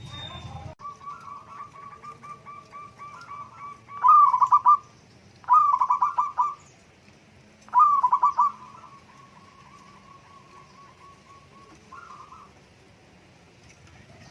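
Zebra dove (perkutut) cooing: quick runs of short, rapidly repeated coo notes, with three louder bursts about a second long each, near four, five and a half, and eight seconds in, and softer runs between them.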